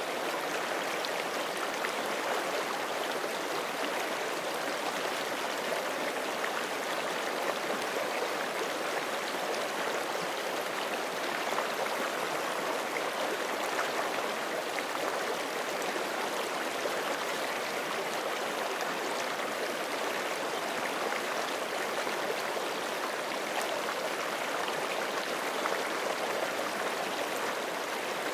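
Forest creek flowing: a steady rush and babble of water over stones, even in level throughout.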